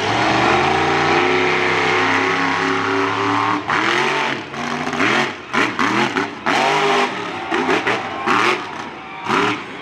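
Monster truck engine held at high revs for about three and a half seconds, then blipped up and down in a quick series of revs.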